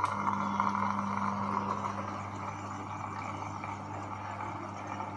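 Siemens front-load washing machine running in spin mode: a steady motor hum with a rushing noise over it, and a second, higher hum that comes in at the start and fades over the first couple of seconds.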